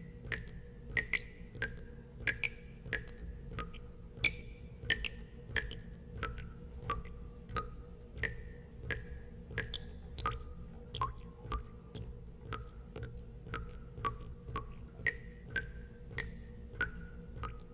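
Water drops falling one after another into water, about one and a half a second, each a sharp plink with a short ringing tone whose pitch changes from drop to drop. A steady low hum runs underneath.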